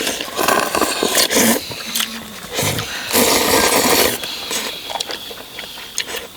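Eating sounds at the table: several short noisy slurps, the longest lasting about a second, then a run of sharp clicks of utensils against bowls.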